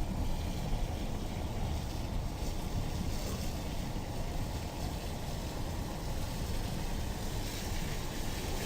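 Steady low rumble of a car driving, with engine and road noise heard from inside the vehicle.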